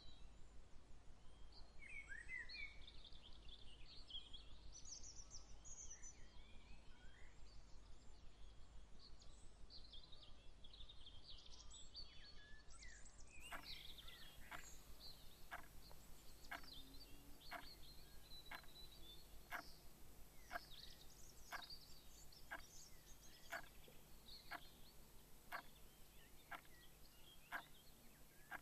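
Faint outdoor nature ambience: scattered birdsong chirps in the first half. About halfway through the recording changes to a regular series of short calls, roughly one a second, over a steady background hum.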